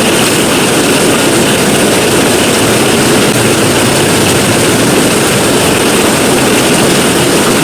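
Heavy rain pouring down in a steady, loud, unbroken hiss.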